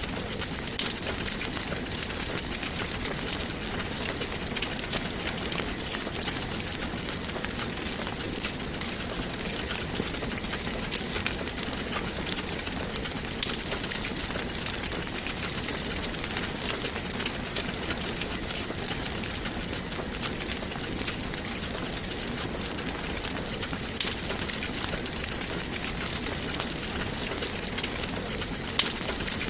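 Wood fire burning in a fireplace: a steady hiss with many small, quick crackles and one sharper pop near the end.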